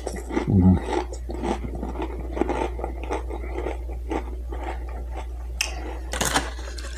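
Close-up chewing of a cream-cheese-dipped nacho cheese Dorito: irregular crisp crunches throughout, with a short hummed "mm" about half a second in.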